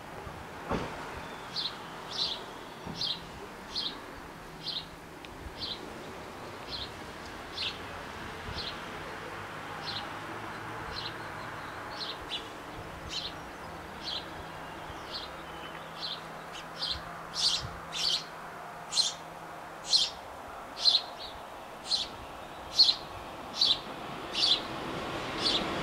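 A small bird chirping over and over, about once a second, louder in the second half. Near the end the rising rumble of an approaching train begins to come in.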